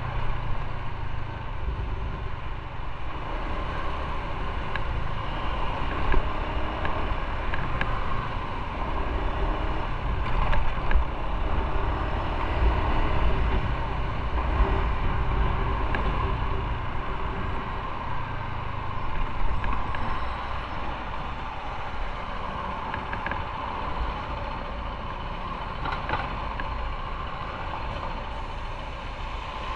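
Motorcycle running at road speed while being ridden: a steady engine drone mixed with deep rumble and road and wind noise, with no clear revving or stops.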